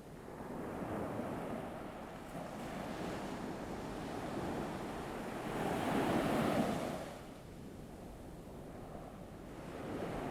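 Ocean surf washing onto a shore, one wave swelling and breaking about six seconds in, then drawing back.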